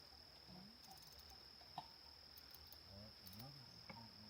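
Faint, steady, high-pitched drone of insects: a summer cricket or katydid chorus. Faint far-off voices and a couple of light clicks can be heard over it.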